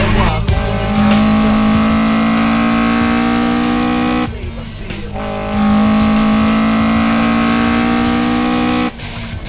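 Toyota AE86 Sprinter Trueno GT-APEX's 1.6-litre twin-cam four-cylinder engine at high revs, its note held steady and sinking slightly, cutting out briefly about four seconds in and again near the end.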